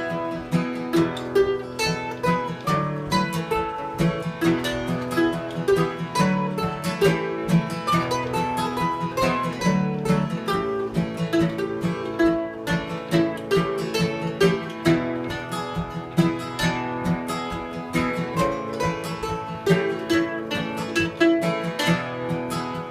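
Acoustic guitar picking a melodic instrumental break between verses of a slow folk song, with a steady stream of plucked notes over held chords.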